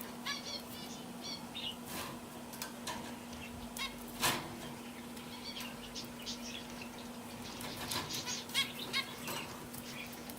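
Pet canaries in a cage giving scattered short chirps and calls, with wings fluttering and small clicks, the loudest flutter about four seconds in. A steady low hum runs underneath.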